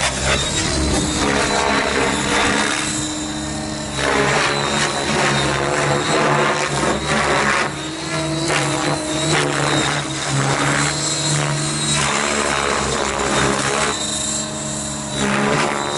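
Align T-Rex 700 radio-controlled helicopter running, its rotor and motor making a steady, loud noise with a high whine held through it.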